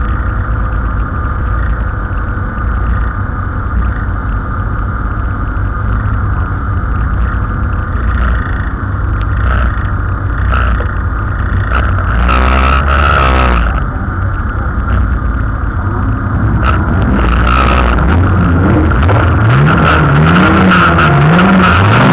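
Race car engines idling at the start line, heard from inside a car, with a loud burst of revving about twelve seconds in. From about eighteen seconds in the engines rev up again and again in rising sweeps, growing louder as the cars get under way.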